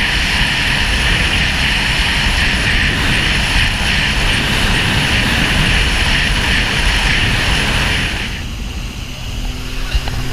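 Sea-Doo Wake 215 jet ski running at speed: a loud, steady rush of engine, jet pump and water. About eight seconds in the high part of the noise cuts off and it quietens as the jet ski comes off the throttle.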